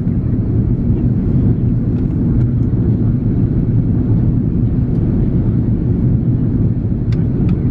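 Steady low cabin roar of an Airbus A330-300 airliner in flight: airflow and engine noise heard from a window seat, even and unbroken, with a couple of faint clicks near the end.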